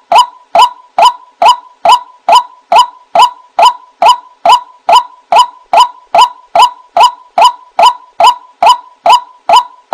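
White-breasted waterhen lure call: a short call centred near 1 kHz, repeated a little over twice a second at a very even, looped pace.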